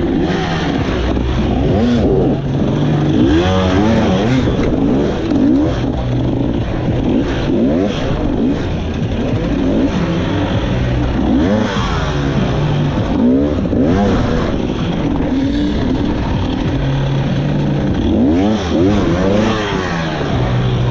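Two-stroke dirt bike engines revving, their pitch rising and falling over and over, with several engines sounding at once at times.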